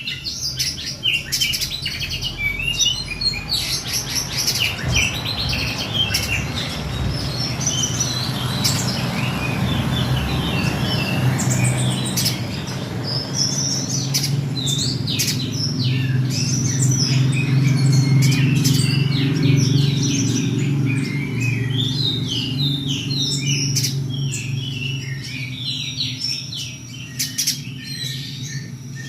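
Pijantung gunung, a spiderhunter, singing a busy run of short, sharp chirps and trills over a steady low hum.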